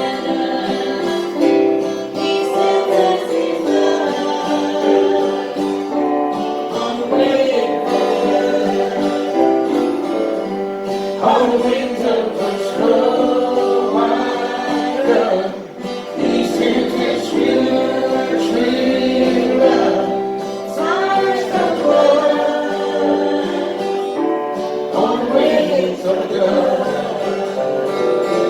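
Gospel song sung with instrumental accompaniment, voices holding long notes over steady chords.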